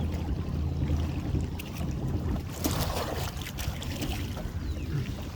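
Small boat's motor running steadily at idle, with water splashing and dripping a couple of times about halfway through, as the trotline is worked.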